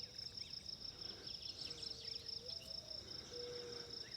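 Outdoor ambience at a farm pond: insects trill steadily in a fast high pulse, with scattered short bird chirps over it. A faint low drawn-out note bends upward about halfway through and holds steady near the end.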